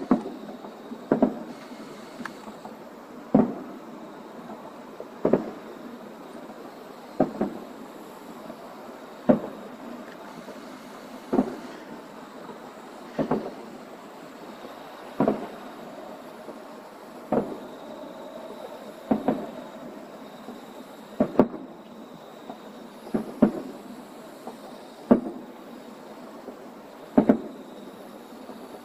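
Aerial firework shells bursting, one sharp boom about every two seconds, sometimes two close together, each with a short echoing tail.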